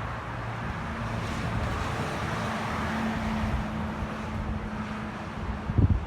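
Steady engine rumble with a low hum, swelling a little toward the middle, and wind buffeting the microphone near the end.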